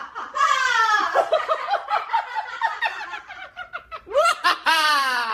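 High-pitched cackling laughter: a rapid run of short falling notes, then two louder, drawn-out squawk-like calls near the end.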